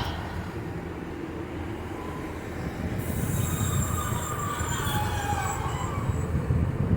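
Train running past with a low rumble that builds, joined about three seconds in by a high metallic squeal of several tones that slide down in pitch.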